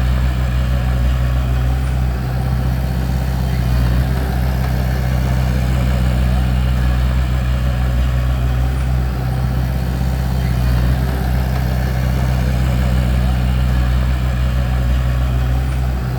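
Bulldozer's diesel engine running steadily, a low even drone with no change in pace.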